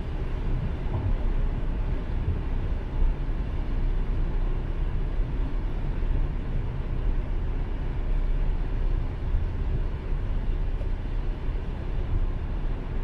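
Steady road and engine noise of a car cruising at highway speed.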